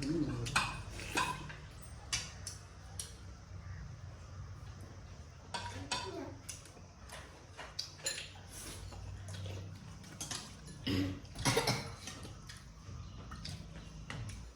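Spoons and dishes clinking in short, scattered taps as people eat from plates, over a low steady hum.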